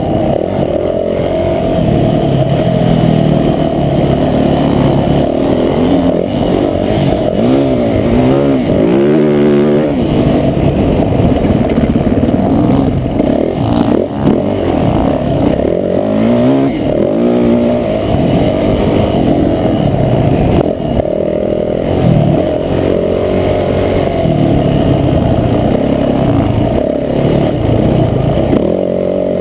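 Motocross bike engine running hard and revving up and down over and over, its pitch rising and falling with each throttle change and gear shift as it is ridden round a dirt track.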